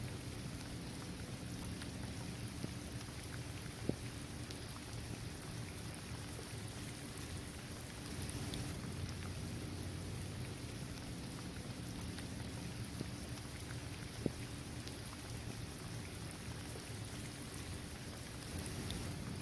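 Steady rain falling on a paved basketball court, trees and grass, with two sharper single ticks, about four seconds in and again near fourteen seconds.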